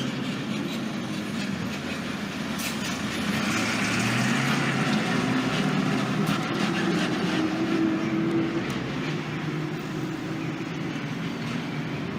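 Road traffic: vehicle engines running steadily under a continuous rumble of road noise.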